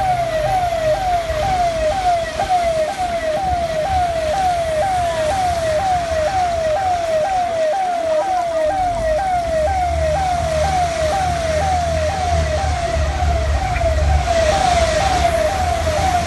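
Electronic emergency-vehicle siren sounding a fast yelp, its pitch sweeping up and down about twice a second without pause. A low vehicle engine rumble comes in about ten seconds in.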